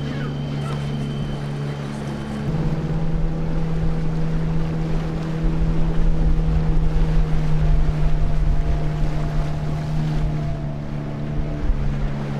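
Motorboat engine running steadily, picking up speed about two seconds in, with water and wind noise on the microphone.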